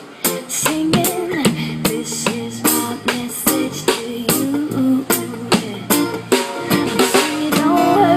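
Instrumental passage of a reggae song: guitar strumming over bass guitar and drums, with a steady beat.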